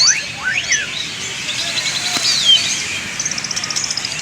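White-rumped shama (murai batu) singing: whistled notes sliding up and down, then a fast run of short repeated notes from about three seconds in.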